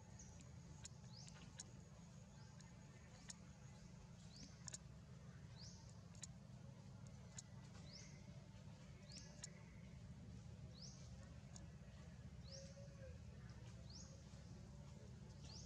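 Quiet outdoor ambience in which a small bird repeats a short, high chirp that slides upward, about once a second, over a faint steady low rumble and a few scattered soft ticks.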